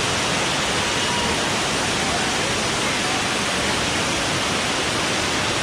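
Waterfall: a steady, even rush of falling water close by.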